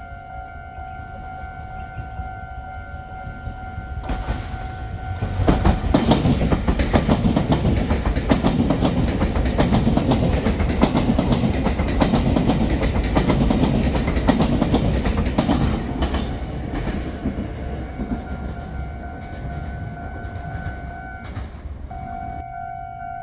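A train passes through the station without stopping. Its rush and wheel clatter build from about four seconds in, stay loud for about ten seconds, then fade. A steady electronic warning tone sounds before and after the pass.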